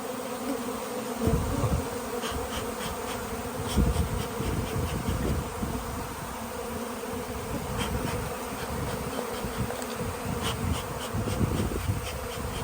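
A dense cloud of honeybees buzzing loudly and steadily around a colony just cut out of a house wall. Low rumbles from wind or handling on the microphone come and go underneath.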